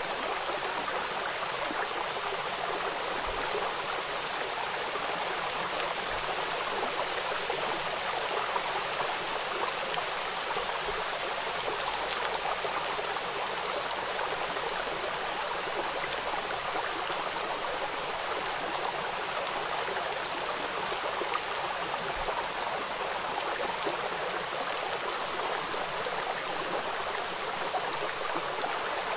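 Steady rain falling onto a wet hard surface: an even, unbroken hiss with fine ticks of individual drops.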